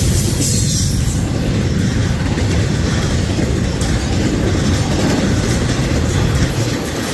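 Norfolk Southern freight train's cars rolling past close by: a loud, steady rumble of steel wheels on rail.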